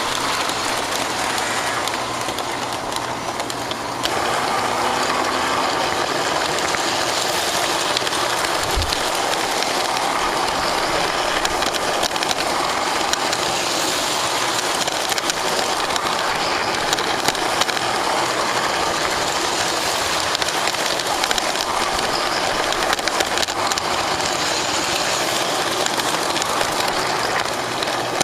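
Lionel GP9 O gauge model locomotive running along its track, a steady rattle of motor and wheels picked up from on board the engine. It eases off slightly a couple of seconds in, and there is one low bump near nine seconds.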